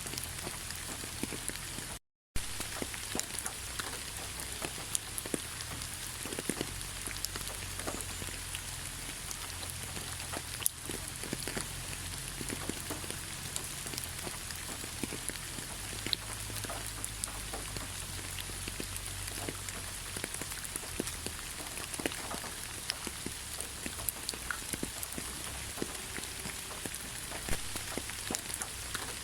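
Steady rain falling in a pine forest, with many separate drop hits close by over an even hiss. The sound cuts out for a split second about two seconds in.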